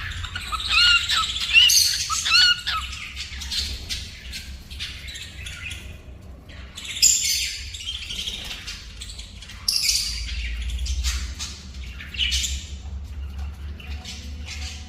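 Pet cockatiel whistling a short repeated song phrase of rising-and-falling notes, about three times in the first few seconds. Harsher bird chirps and squawks follow here and there, the loudest about seven and ten seconds in.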